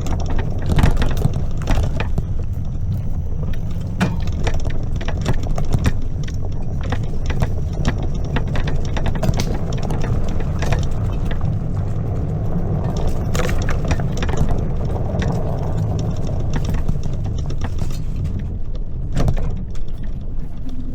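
Wind buffeting the microphone on a moving Greenworks 60V electric mini bike, a steady low rumble, with frequent rattles and knocks from the bike and its mount jolting along.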